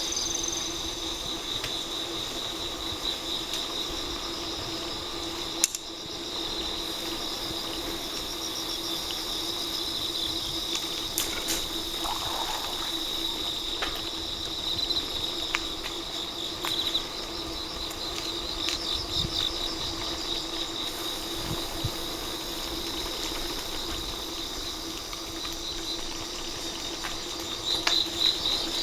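Crickets and other insects chirring in a steady high-pitched chorus, with pulsing trills, over a steady low hum. There is a sharp click about six seconds in.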